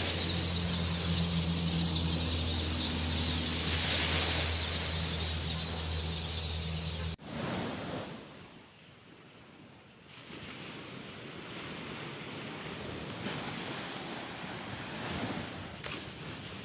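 Wind and surf noise with a steady low hum under it. The hum and noise cut off abruptly about seven seconds in, and after a quieter stretch the wind and surf noise builds again.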